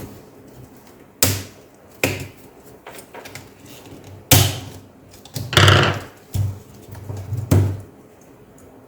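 Sharp plastic clicks and snaps as a laptop keyboard is pried out of its clip-in frame, its plastic latches releasing; four separate clicks with a longer scraping rasp a little past halfway.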